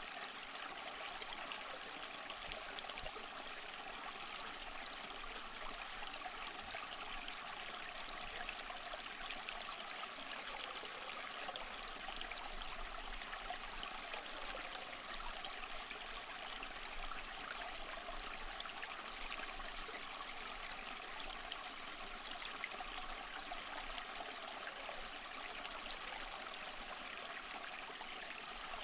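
Small stream flowing and trickling steadily, a continuous even splashing of running water.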